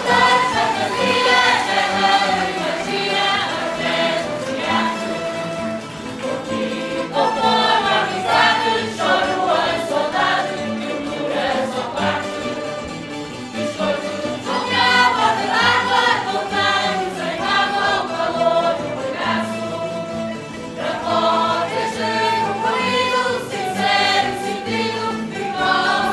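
A group of voices singing together in chorus, in phrases of a few seconds each, as part of a Terceira carnival bailinho song.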